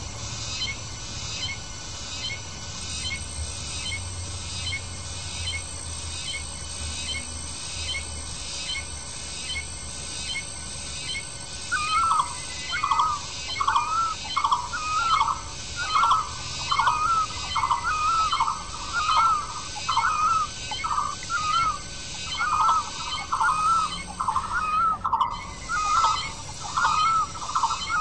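Birds calling: a high chirp repeated about twice a second throughout, joined about twelve seconds in by a louder, lower call that also repeats about twice a second.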